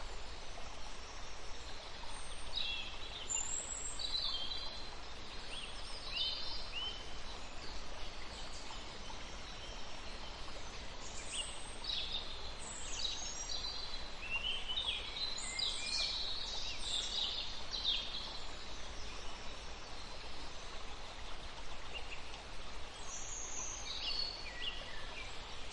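Birds chirping: short, high, quick calls that come in scattered clusters, busiest in the middle, over a steady outdoor hiss.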